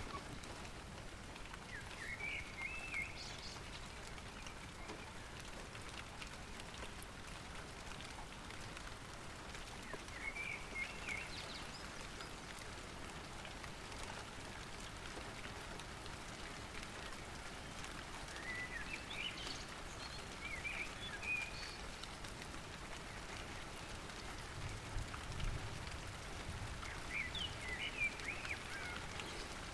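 Light rain falling steadily, a soft even patter of raindrops. A bird sings short chirping phrases about every eight seconds over it, and there is a brief low rumble near the end.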